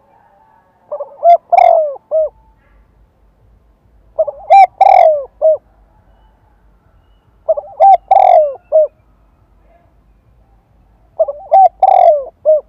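Spotted dove cooing: four calls a few seconds apart. Each is a quick run of short notes around one longer, falling coo.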